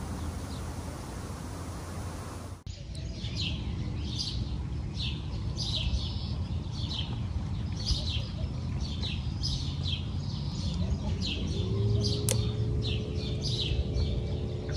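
Rushing river water. After a cut, a small bird calls over and over, a short falling chirp about one and a half times a second, over a low outdoor rumble. A steady low hum comes in near the end.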